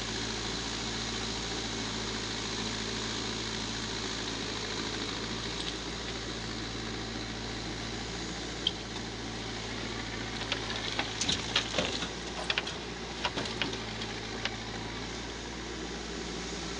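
Backhoe loader's diesel engine running steadily, with a run of sharp knocks and clatters about two-thirds of the way through.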